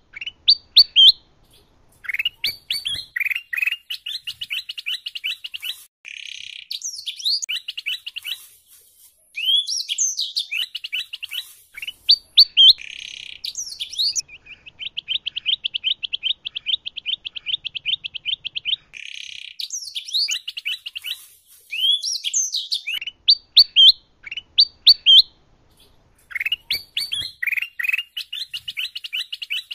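Caged songbirds singing: a domestic canary together with a kutilang emas bulbul. They sing phrases of quick chirps, rising and falling whistles and rapid trills, with short pauses between phrases and a long, even rolling trill in the middle.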